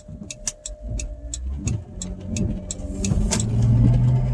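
Car cabin sound: a low engine hum under a run of light, quick ticks, with one louder click a little past three seconds in.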